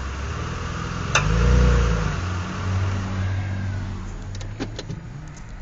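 2007 Mitsubishi Eclipse moving off under load, the engine swelling in level, with a sharp click about a second in and a few lighter clicks later on. The clicking under drive-train load is the sign of a failing drive axle, the left one by a shop's diagnosis.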